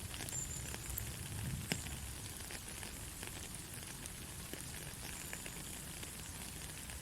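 Steady rain falling in a rain forest, a crackling patter of many small drops over a low rumble, with one sharper tick a little under two seconds in.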